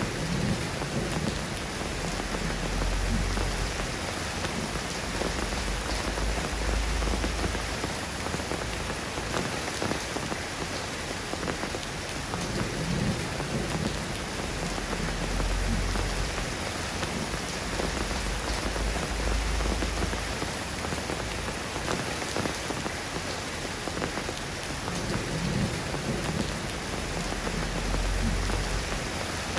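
Steady rain falling, with low rumbles swelling and fading every several seconds.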